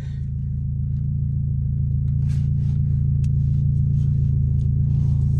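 Car engine and exhaust droning steadily at a low pitch, growing a little louder over the first couple of seconds.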